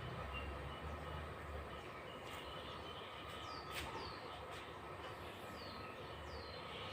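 Several high, short bird chirps, each falling quickly in pitch, starting about halfway through, over steady background noise with a low rumble early on.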